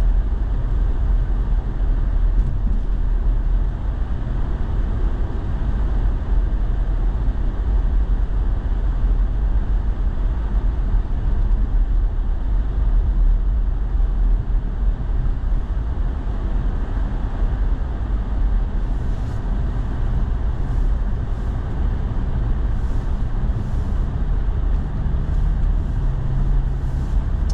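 Steady low rumble of road and engine noise heard inside a four-wheel-drive truck's cab while driving on snow-covered streets. Faint short clicks come in over the last several seconds.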